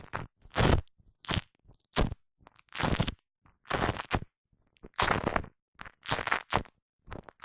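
Shaving foam being squished and pressed on a microphone close up: a series of about eight short, sticky squishes, roughly one a second, with silence between them.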